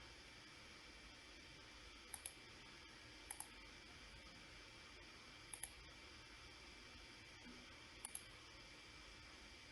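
Computer mouse clicking: four quick double clicks spread a second or more apart, over a faint steady hiss.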